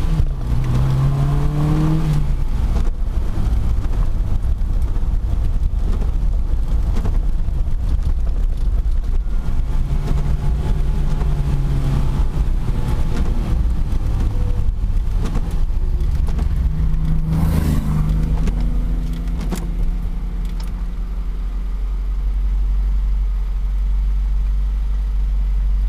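Four-cylinder engine of a 1978 Opel Kadett C heard from inside the cabin, revving up through the gears with the pitch rising in steps, then pulling steadily. In the last several seconds it eases off to a lower, steady rumble.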